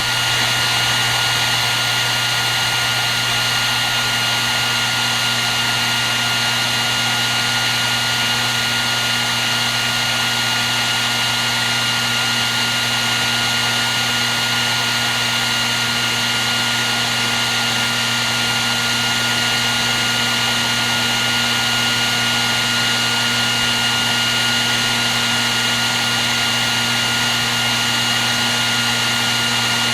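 Hair dryer running steadily on one setting: a continuous rush of blown air with a steady high whine and a low hum from its motor and fan.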